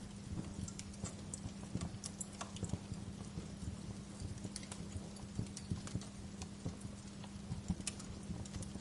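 Wood fire crackling, with irregular sharp pops and snaps several times a second over a steady low hum.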